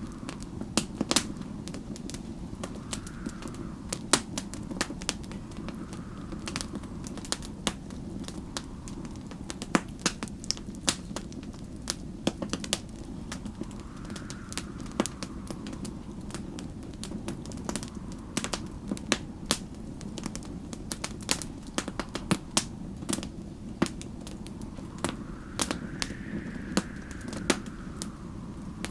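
Wood fire crackling with frequent sharp pops over a steady low rumble, while a faint whistling wind rises and falls in slow gusts every few seconds.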